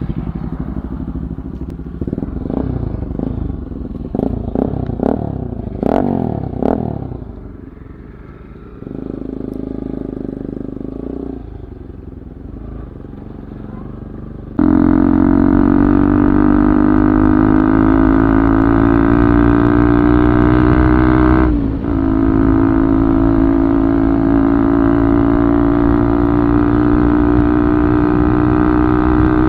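Motorcycle engine through an Akrapovic full-system exhaust, revved in several quick blips and then settling to a steady run. About halfway through the sound jumps suddenly to a much louder, steady drone, which dips briefly near the three-quarter mark and carries on.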